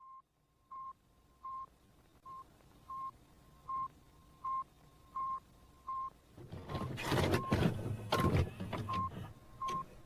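A steady run of short, same-pitched electronic beeps, about four every three seconds. About two-thirds of the way in, louder rumbling and rustling noise comes in over them.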